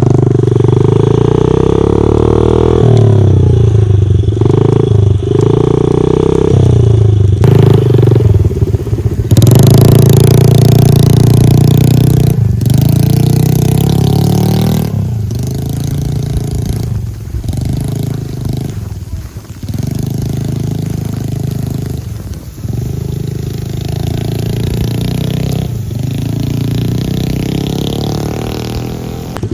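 Honda dirt bike engine revving hard under load, the throttle opened and backed off again and again as the bike pushes slowly through deep snow.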